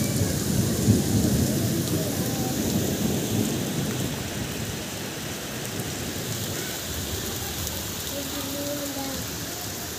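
Heavy rain pouring down and splashing on the ground. A low rumble of thunder peaks about a second in and fades away over the next few seconds.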